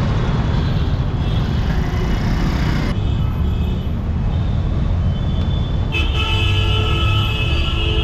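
Busy street traffic with a steady engine rumble. About six seconds in, a vehicle horn starts and is held for over two seconds.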